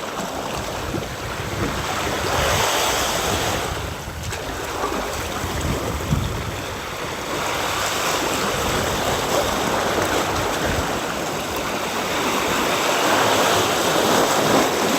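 Sea surf washing on the shore in a steady rush that swells and eases, with some wind on the microphone.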